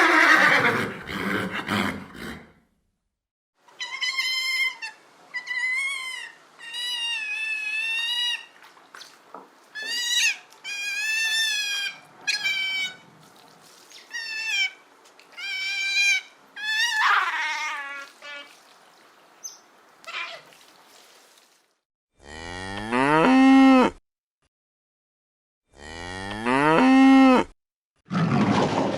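A run of short, high, wavering animal calls from an unidentified animal, then two long cow moos near the end, each rising and then falling in pitch.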